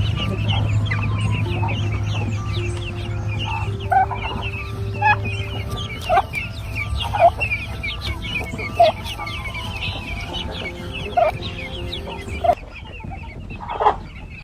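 Newly hatched turkey chicks peeping rapidly and without pause in short, high notes. Louder, lower rising calls from fowl come about every second or two. A steady low hum underneath cuts out about twelve and a half seconds in.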